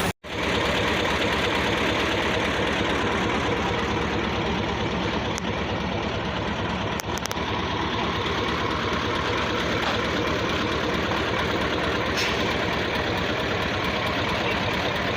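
Heavy diesel engine of the machinery loading soil onto a truck, running steadily, with a brief dropout just after the start.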